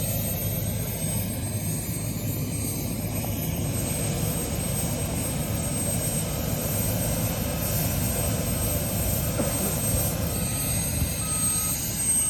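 Steady aircraft engine noise heard from inside the cabin in flight, with a faint row of short beeps partway through.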